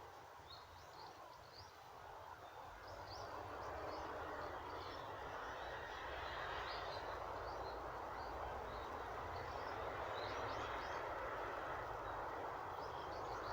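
Wind moving through trees with autumn leaves, a steady rushing rustle that swells about two seconds in and then holds. Small birds chirp briefly again and again over it.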